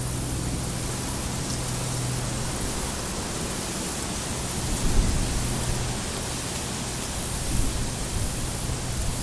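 Steady rushing outdoor noise, an even hiss from a nature field recording. A low, steady hum fades out over the first few seconds, and brief low rumbles come about five and seven and a half seconds in.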